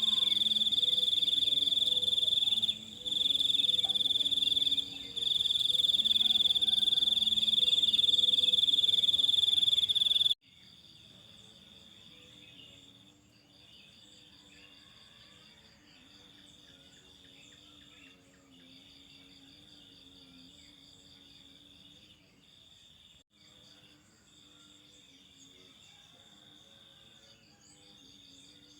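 An insect trilling: a steady high-pitched trill with a few brief breaks. About ten seconds in it cuts suddenly to a much fainter trill of the same kind, which runs on with short pauses.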